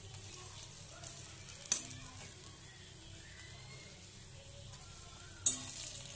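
Batter-coated pointed gourd leaf fritters sizzling steadily in hot oil in a metal kadai. A metal spatula scrapes and stirs them, knocking sharply against the pan once a little under two seconds in and again, louder, near the end.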